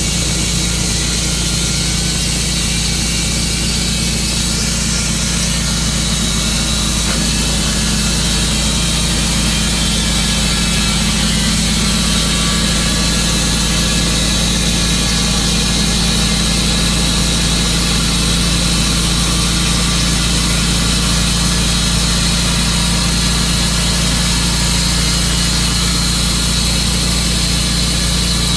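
Tru-Cut sawmill running steadily: the engine drone with a constant high whine from the saw, unchanged throughout.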